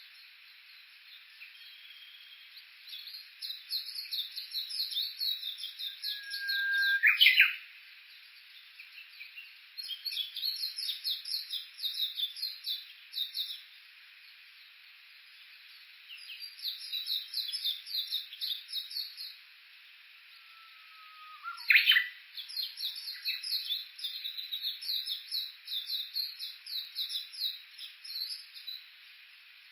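Japanese bush warbler calling: several bouts of fast, repeated chattering notes. Twice, about seven seconds in and again about twenty-two seconds in, a louder whistled song breaks in, a held low note followed by a sharp upward flourish, typical of the 'hō-hokekyo' song.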